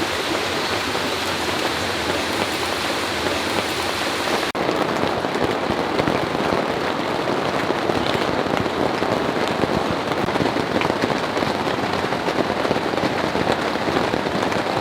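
Heavy rain pouring steadily. About four and a half seconds in, the sound dips for an instant and the rain's hiss changes slightly.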